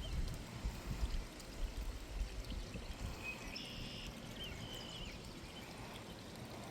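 Creek water running steadily, with a few faint high bird chirps about three to four seconds in.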